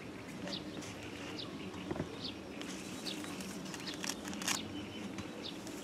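Birds chirping in short, scattered calls over a low steady hum, with a few brief clicks and rustles around the middle.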